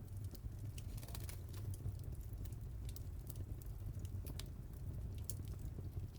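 Wood fire in a fireplace crackling, with irregular sharp pops and snaps over a steady low rumble of the flames; a quick flurry of crackles comes about a second in.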